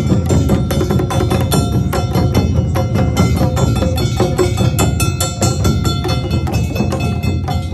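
Awa Odori festival music from a marching band of drums and gongs, with struck beats coming thick and fast under held melody notes.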